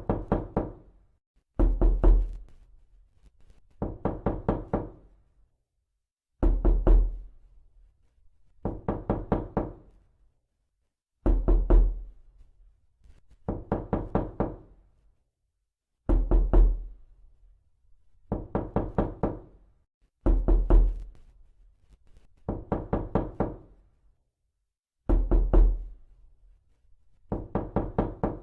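Knuckles knocking on a door in quick runs of about five raps, each run about a second long, repeated every two seconds or so with short pauses between.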